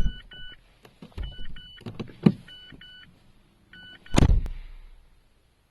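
Mazda 3 seatbelt reminder chime giving its two-note 'pohn pohn' tones in repeated pairs as the engine is started, unbelted. Several thumps with a low rumble come between the chimes, the loudest about four seconds in, after which it falls quiet.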